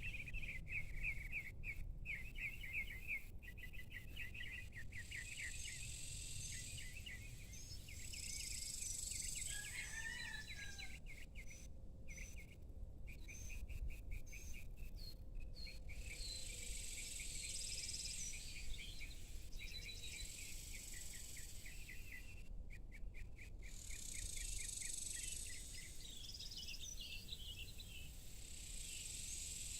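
Evening outdoor ambience: several birds chirping and trilling again and again, insects buzzing high in stretches that start and stop, and a steady low rumble underneath.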